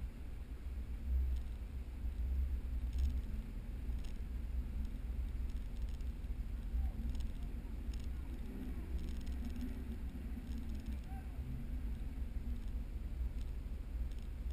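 Jeep engine idling with a steady low rumble, and a faint wavering sound about two-thirds of the way in.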